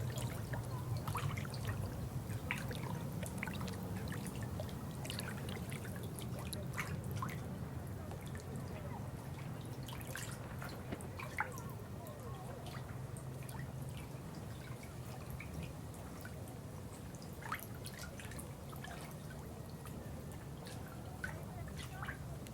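Water trickling and dripping: irregular droplet plinks over a steady low rush of flowing water.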